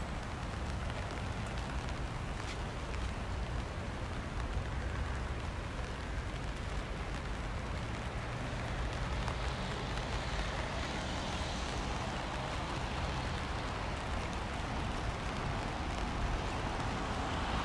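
Steady rain on a city street with the hiss of traffic and tyres on wet road and a low traffic rumble. The tyre hiss grows louder in the second half as vehicles approach.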